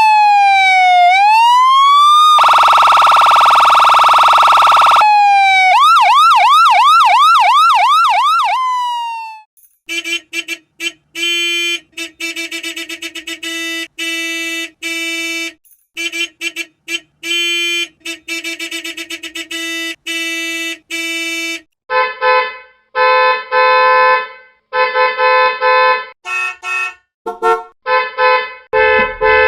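Siren sounds: a wail sweeping down and back up, a steady horn blare lasting about three seconds, then a fast yelp warble. These are followed by many short horn honks in irregular bursts, with a higher-pitched horn taking over about two-thirds of the way through.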